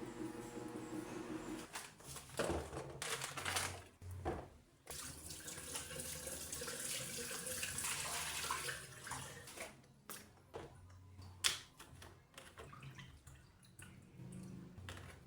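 Water running from a tap into a sink for about four seconds, with knocks and clinks of things being handled before and after. A steady hum stops about two seconds in.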